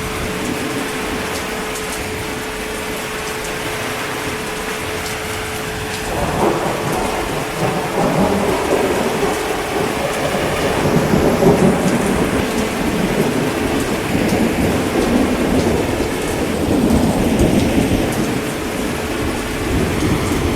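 Steady heavy rain, with rolling thunder that comes in about six seconds in and rumbles on in swells, loudest near the middle and again toward the end.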